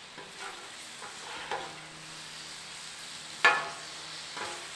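Steak teriyaki sizzling on a Blackstone flat-top griddle, a steady frying hiss, with a few sharp metallic clinks against the griddle top, the loudest about three and a half seconds in.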